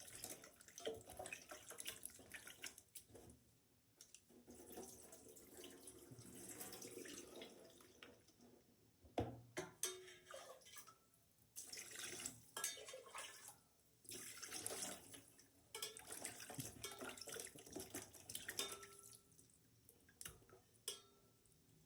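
Water from a tap splashing into a sink or bowl in uneven spells as something is washed by hand, with a sharp knock about nine seconds in.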